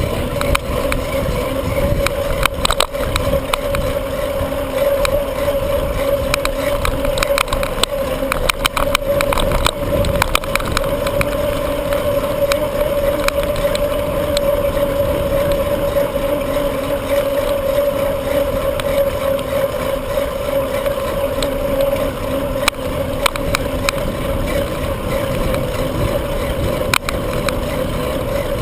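Bicycle riding noise: wind buffeting the microphone and tyres rolling on pavement, under a steady hum, with scattered clicks and rattles from the bike over bumps.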